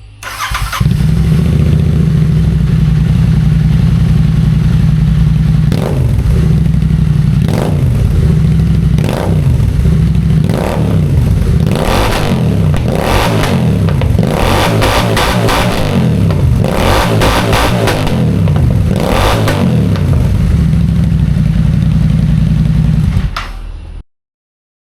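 Royal Enfield Interceptor 650's parallel-twin engine, breathing through Barrel Bass Master slip-on exhausts with the baffles removed, picked up by an action camera's built-in microphone. It idles with a deep, bass-heavy note and is then blipped repeatedly, each sharp rev falling back, before settling to idle and falling away near the end. Without the baffles the exhaust is extremely loud.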